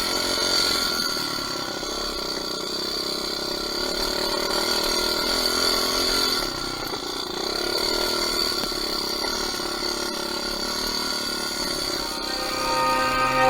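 Enduro motorcycle engine running steadily with a buzzy, even note, holding a constant pitch.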